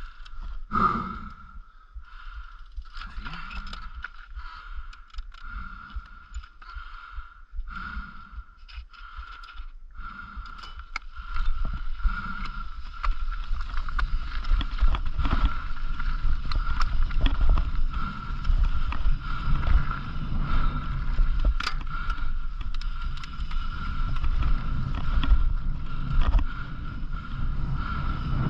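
Bicycle being ridden with the riding noise of tyres and wind on the microphone, patchy at first and getting markedly louder about eleven seconds in. A steady high tone runs under it throughout.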